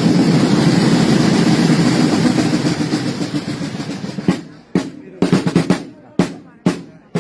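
Parade drums playing a dense, continuous roll that fades away about four seconds in, then giving way to single sharp strokes at about two a second.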